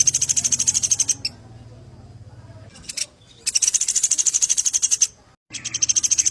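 A songbird singing in full voice ('gacor'): three long, high-pitched, rapid trills of fast repeated notes, each lasting about a second to a second and a half, with short pauses between them.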